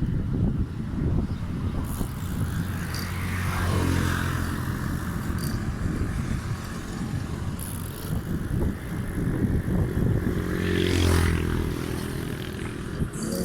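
Motor vehicles passing on the road alongside a moving bicycle, their engine hum swelling and fading twice over a steady low rumble of wind and road noise.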